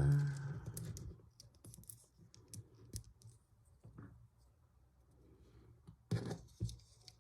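Small plastic Lego pieces clicking and clattering as they are handled and pressed together, with scattered light clicks and two louder knocks about six seconds in.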